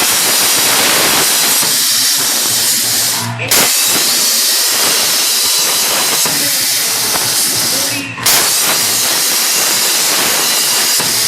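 CNC plasma cutter torch cutting, a loud steady hiss that drops out twice for a split second, about three and a half and eight seconds in, then starts again.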